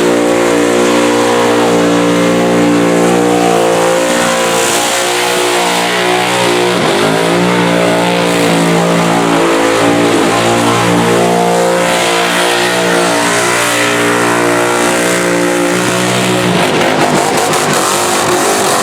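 War Bird's 1,700-horsepower methanol-injected engine is held at high revs, around 6,800 rpm, through a long burnout, with the tyres spinning. The engine note stays steady, dips briefly twice, and breaks up near the end as the car comes off the throttle.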